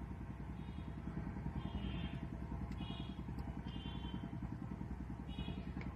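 Steady low engine-like rumble with a fast, even pulse. Over it come short metallic clicking strokes about once a second, from a ratchet and 8 mm socket undoing the gearbox crossmember bolts of a Tata Sumo.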